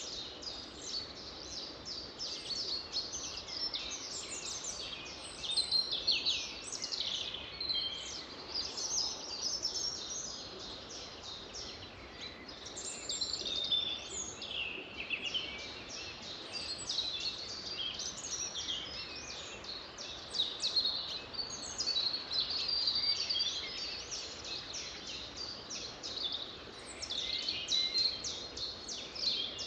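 Chorus of many songbirds singing at once: a dense, unbroken stream of overlapping high chirps, trills and gliding whistles, over a faint background hiss.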